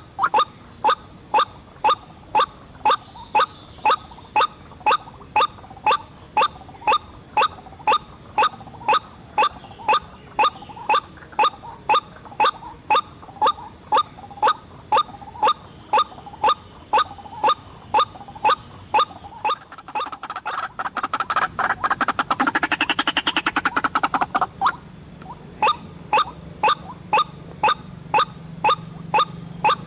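White-breasted waterhen calling: a sharp note repeated evenly about twice a second. About twenty seconds in it breaks into a rapid chattering run for a few seconds, then the steady calls resume.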